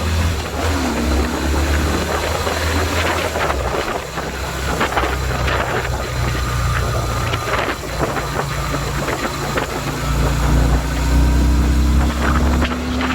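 Yamaha Virago 250's V-twin engine running under way, its pitch rising as it accelerates about half a second in and again near the end, with wind rushing over the microphone.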